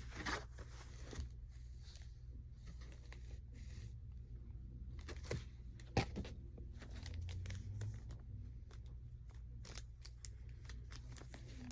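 Paper packaging rustling and crinkling as items are unwrapped by hand, with scattered light clicks and a sharper tap about six seconds in, over a low steady hum.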